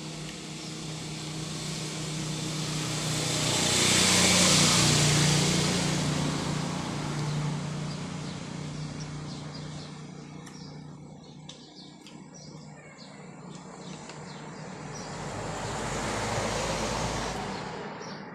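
Motor vehicles passing on a nearby road: one swells up and fades away about four to five seconds in, and a second, quieter one passes near the end.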